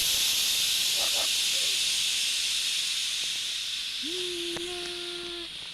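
A loud, steady hiss that slowly fades, with a held, slightly rising tone starting about four seconds in.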